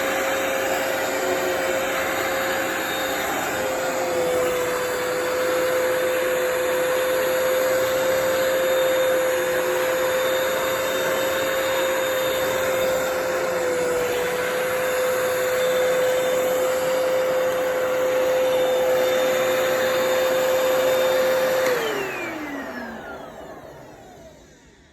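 Hoover PowerDash Pet carpet cleaner running, a steady motor whine over a rushing suction noise. About 22 seconds in it is switched off, and the whine falls in pitch as the motor winds down to a stop.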